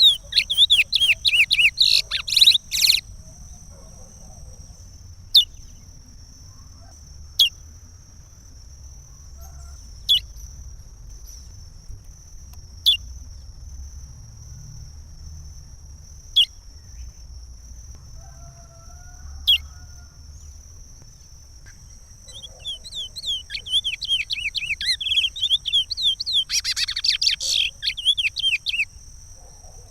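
Chestnut-bellied seed finch (curió) singing its Pará regional song: a rapid warbling phrase at the start, a few single sharp notes spaced a couple of seconds apart, then another long warbling phrase near the end. A steady high tone runs underneath.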